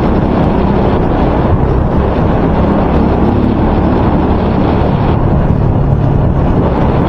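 Loud, steady wind noise buffeting a microphone wrapped in electrical tape: the tape is not keeping the wind roar out.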